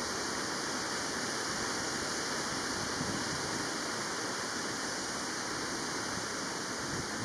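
Steady, even rushing noise with no gusts and no distinct sounds.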